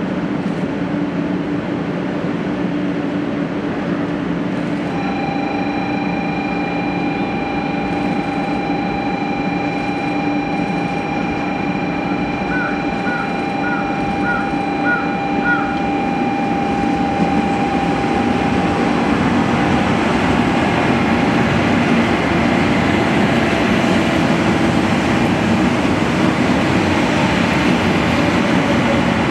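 Steady rumble of a Shinkansen train, growing a little louder in the second half. A steady high tone sounds over it for about fourteen seconds in the first half.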